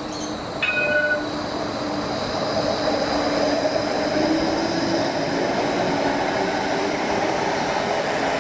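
Light-rail tram running past: a steady rolling noise with a faint motor whine, growing louder over the first few seconds. A short high tone sounds about a second in.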